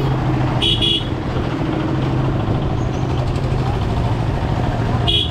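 Motorcycle engine running steadily under road noise while riding, with two quick horn beeps about a second in and another beep near the end.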